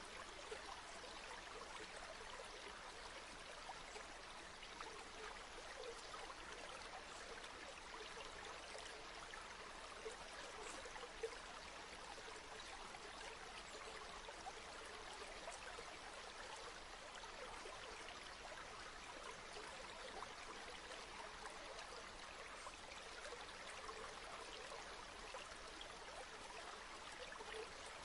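River water flowing steadily over stones, a soft, even rush with small splashes and trickles.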